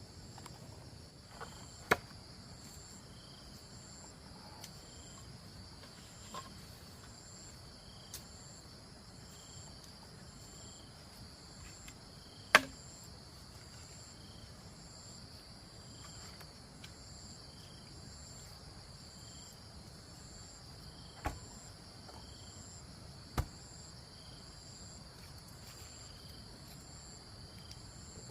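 Insects chirping steadily: a continuous high hiss with a regular pulsed chirp, about one and a half chirps a second. A few sharp knocks cut through it, the loudest about halfway through.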